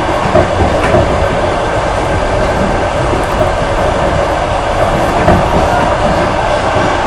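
Intercity passenger train running at speed, heard from aboard a carriage: a steady rumble and rush of wheels on the rails.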